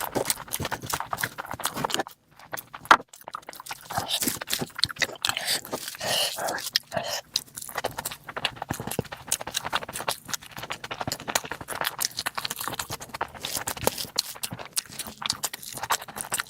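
Close-miked eating sounds: chewing and wet lip-smacking of curry and rice, a dense run of quick clicks with a brief lull about two seconds in.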